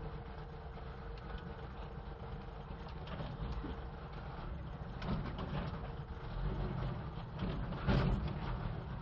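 Old BMC truck's engine running, with steady low rumble and cab rattle; a brief louder clatter comes near the end.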